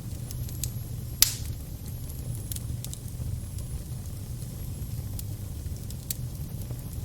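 Crackling fire over a steady low rumble, with sparse sharp pops and one loud snap about a second in.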